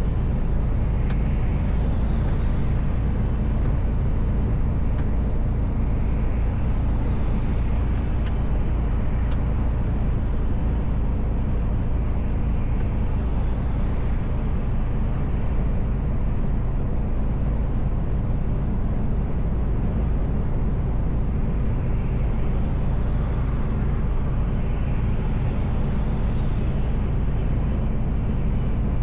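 Mercedes Actros L truck driving at a steady speed: continuous, even engine and road rumble, low-pitched and unbroken.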